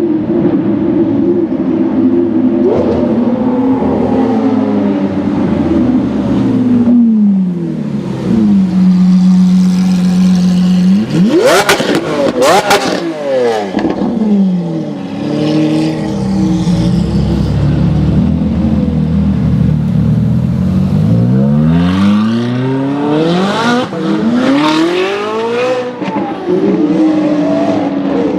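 Lamborghini Aventador's V12 engine revving and pulling through the gears: its pitch falls, holds, and climbs again several times, with a fast high rev and a couple of sharp cracks about twelve seconds in.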